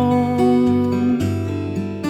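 Acoustic guitar strummed in a folk accompaniment, its chords ringing on between strokes.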